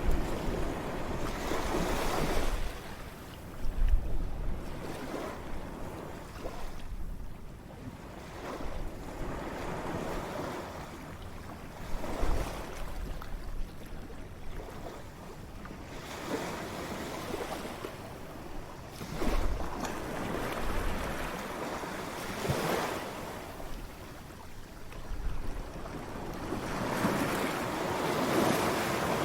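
Ocean waves breaking on a shore in repeated surges, each wash swelling and fading over a few seconds. Bursts of wind rumble on the microphone come and go with them.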